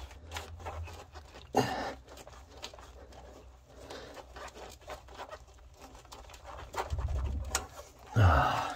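Scattered small clicks and knocks of hands working at a plastic wiring-harness connector to undo it, with one sharper click about a second and a half in and a couple of low handling rumbles.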